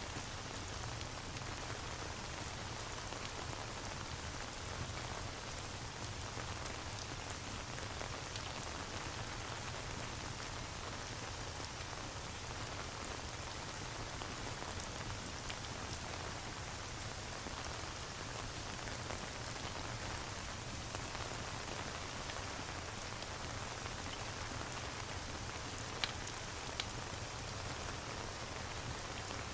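Steady rain ambience with a fireplace crackling. Two sharp pops come close together near the end.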